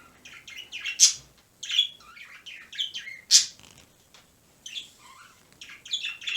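Pet birds chirping, a quick run of short, high calls with two louder, sharper ones about a second in and about three seconds in.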